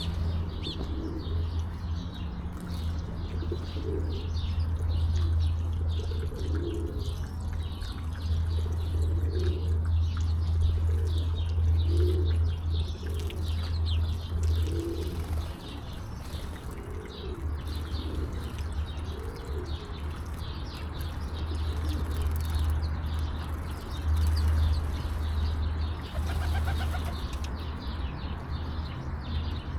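Pigeons cooing over and over in low calls, with small birds chirping, over a steady low rumble.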